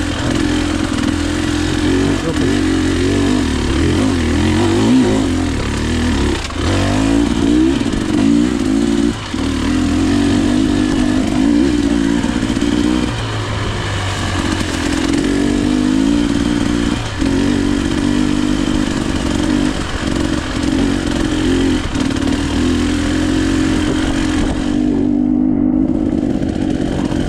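KTM EXC 300 single-cylinder two-stroke enduro engine running under load, its revs rising and falling again and again, with a few sharp knocks among it.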